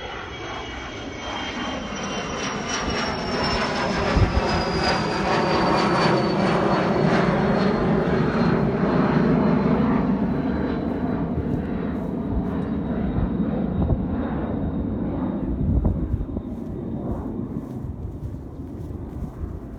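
An aircraft flying past: its engine noise swells to a peak near the middle and then fades, with a high whine falling steadily in pitch as it goes by.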